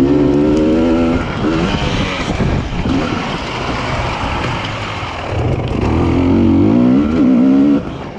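Husqvarna TE300i's fuel-injected 300 cc two-stroke engine heard from on board, held high at the start, then rough and uneven off the throttle, then revving up again before the throttle is shut sharply near the end.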